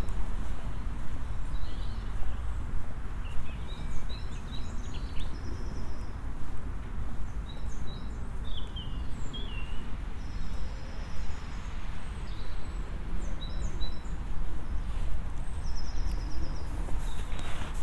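Small birds chirping and trilling on and off over a steady low rumble.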